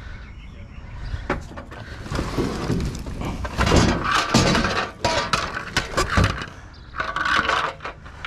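Junk being rummaged through and shifted by hand: a run of clattering knocks and scrapes of hard objects, busiest in the middle.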